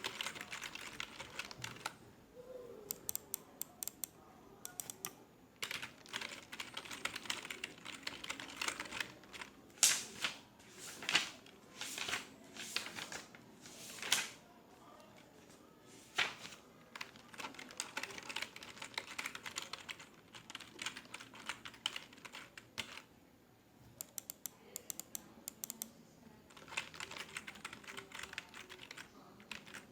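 Typing on a computer keyboard in bursts with short pauses, a few louder single key strokes in the middle.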